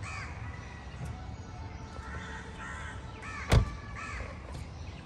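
Crows cawing several times, with one sharp knock about three and a half seconds in, which is the loudest sound.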